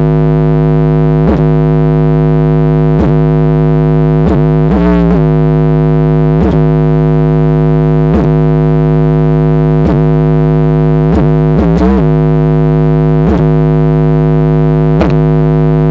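Competition car audio system's subwoofers playing a loud, steady bass tone for a sound-pressure qualifying run, held without a break, with faint regular clicks every second or so.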